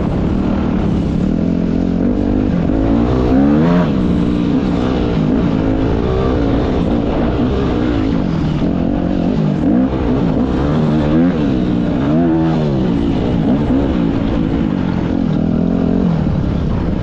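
Dirt bike engine revving up and down again and again as the throttle is opened and shut while riding.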